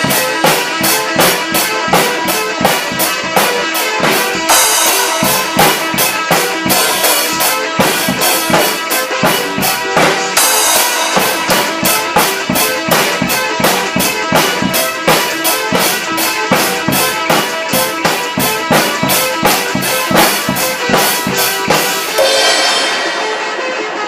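Drum kit played in a steady, driving beat over a backing song, with bass drum, snare and cymbals. About two seconds before the end the drumming stops and the song rings on alone, fading.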